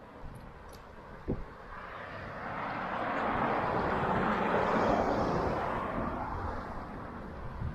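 A vehicle passing by: a rushing noise with no clear pitch that swells, peaks about halfway through and fades again. A light thump about a second in.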